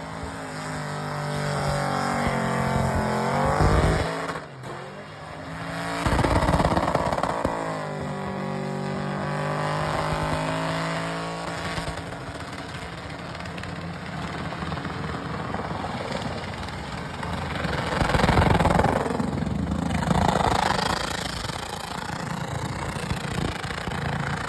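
Burnout car's engine held at high revs, its pitch climbing and sagging as the throttle is worked. The revs drop sharply about four seconds in, then climb again, with harsher, noisier surges later on.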